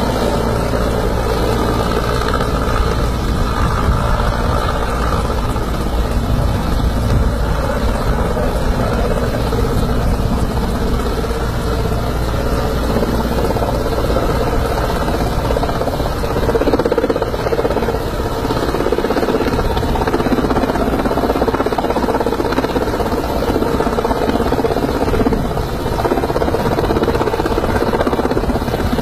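Helicopter running steadily, its rotor and engine giving a loud, continuous noise that does not let up.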